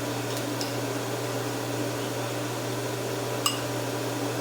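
A kitchen appliance hums steadily. There are a couple of faint ticks about half a second in and one sharp, ringing clink of a utensil or dish about three and a half seconds in.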